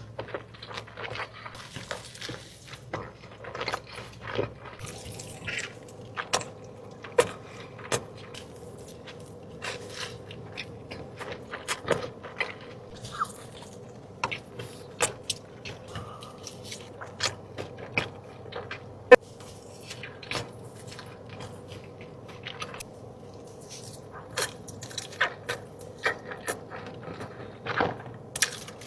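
Close-miked eating sounds: wet chewing and mouth sounds with frequent irregular smacks and clicks, over a faint steady hum.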